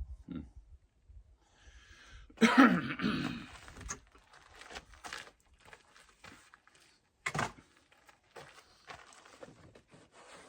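A man coughs or clears his throat once, about two and a half seconds in, followed by scattered light knocks and clicks of tools or gear being handled.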